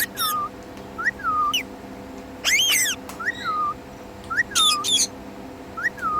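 Indian ringneck parakeet calling: a series of about five short whistled notes, each rising then falling, roughly a second apart. Two louder, harsh screechy calls come in between them, about two and a half seconds in and again near the five-second mark.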